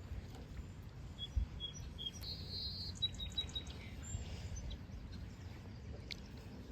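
Small songbirds chirping: a few short high chirps, a buzzy trill about two seconds in, then more quick chirps, over a faint low outdoor rumble.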